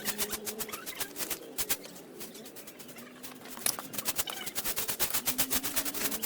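Rapid, irregular scraping or scrubbing strokes, several a second, thinning out for about a second and a half near the middle, over a faint steady hum or tone.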